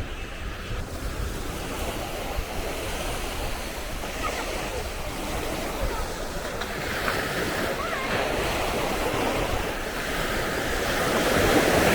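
Sea waves breaking and washing up the beach, with wind buffeting the microphone; the surf swells louder near the end.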